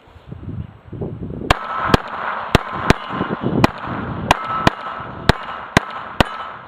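Pistol fired about ten times in steady succession at a steel target plate, which rings after the hits. Wind rumbles on the microphone.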